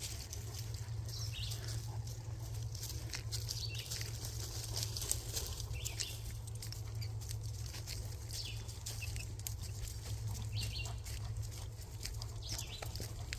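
Footsteps and rustling on a muddy park trail, many small irregular clicks and scuffs, over a steady low rumble of wind or handling on the microphone.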